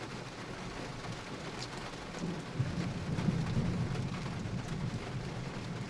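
Heavy rain falling steadily, with scattered drops ticking close by. A low rumble of thunder swells about two seconds in and eases off near the end.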